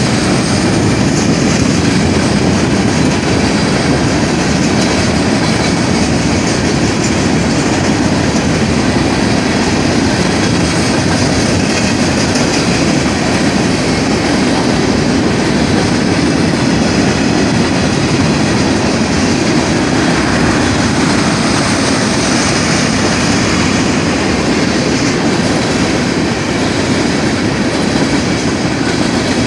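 Freight train cars rolling past a grade crossing: loud, steady noise of steel wheels running on the rails, unbroken throughout.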